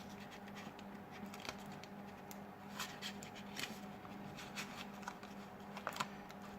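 Scattered light clicks and scratches of hand tools working inside an opened smartphone, over a steady low hum.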